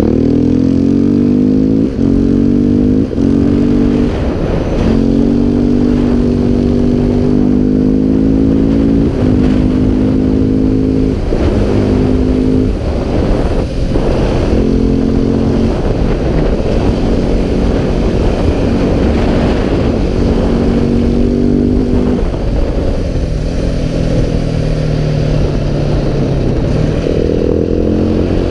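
KTM 690 SMC R's single-cylinder engine pulling the bike along, its note rising as the throttle opens and breaking off several times as it is shifted or eased, then picking up again.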